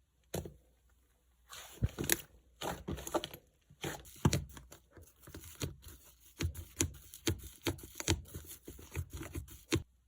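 Clay-mixed slime squeezed, pressed and stretched by hand, giving irregular crackles, small pops and tearing sounds. After a short pause near the start the handling runs on in quick bursts.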